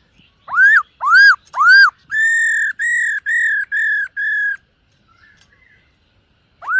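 Black-throated laughingthrush (khướu bạc má) singing: three loud whistles that swoop up and drop back, then a run of five level, steady whistled notes, then a pause of about two seconds before the swooping whistles start again.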